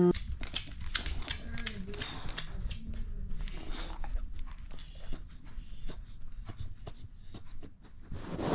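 A dog chewing and crunching on something, with many irregular crunches and clicks. A louder knock comes near the end.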